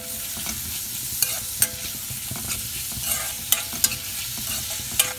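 Chopped shallots sizzling in hot oil in an iron kadai, stirred with a steel ladle that clinks and scrapes against the pan at irregular moments over a steady frying hiss.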